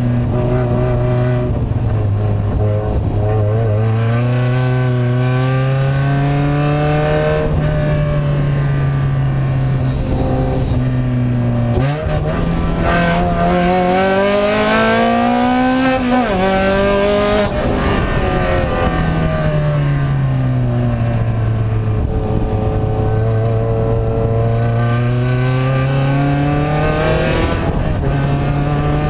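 Vehicle engine with an open, unmuffled exhaust running loud, its pitch climbing and falling as it speeds up and slows down. The pitch jumps about twelve seconds in and drops sharply around sixteen seconds.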